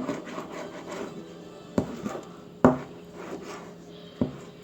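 A knife cutting through the skin and meat of a raw whole chicken on a cutting board, with soft scraping and handling. Three sharp knocks against the board, the middle one the loudest.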